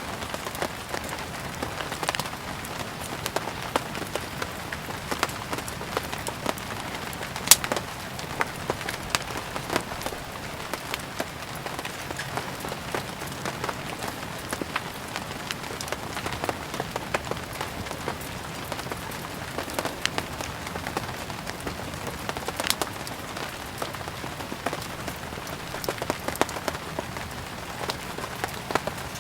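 Steady rain mixed with firewood burning: a constant rain hiss dotted with frequent sharp crackles and pops, one louder crack about seven and a half seconds in.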